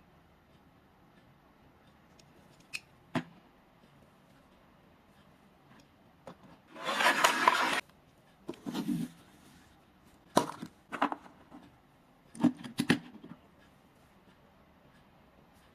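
Hand-handling sounds of opening toy packaging: a few sharp clicks, a loud scraping rustle lasting about a second near the middle, then clusters of clicks and knocks.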